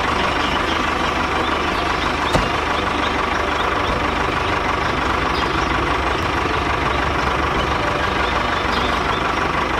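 Engine idling steadily, with one sharp click about two and a half seconds in.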